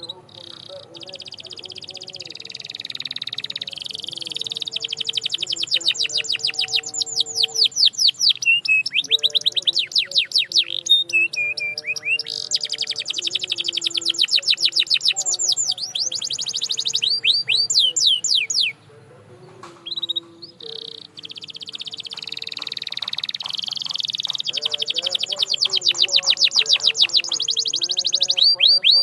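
Domestic canary singing long rolling trills of rapidly repeated high notes that swell in loudness, breaking off for a moment about two-thirds of the way through before starting up again.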